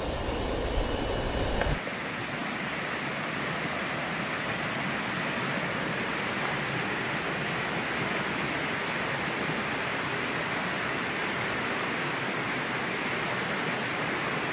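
Steady rushing water of a rainforest stream, starting abruptly about two seconds in after a brief duller, rumbling stretch.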